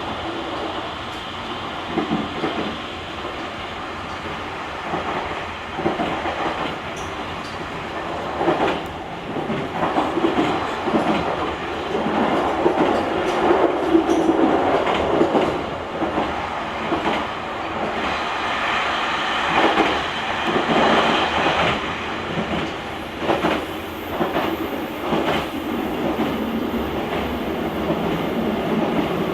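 JR Kyushu 883 series Sonic electric train running on the line, heard from the vestibule deck: a steady rumble of wheels on rail with scattered clatters over joints.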